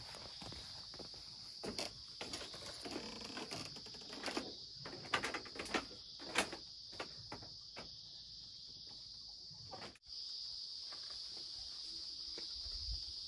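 Steady high-pitched insect chirring, with scattered clicks and knocks over it; the sound drops out for an instant about ten seconds in.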